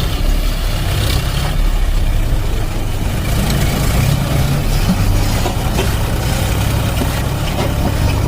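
Vehicle engine running steadily with a low drone.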